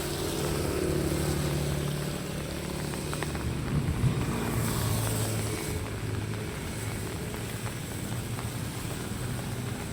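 Motor vehicle engine running as a low steady hum, with a brief hiss about five seconds in.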